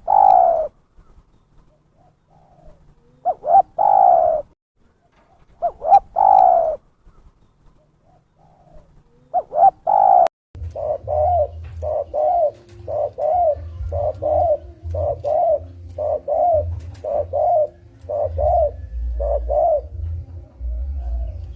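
Spotted dove (terkukur) cooing, a trapper's lure recording. Separate coo phrases about every three seconds, then after an abrupt break about halfway through a quicker run of short coos, about two a second, over a low rumble.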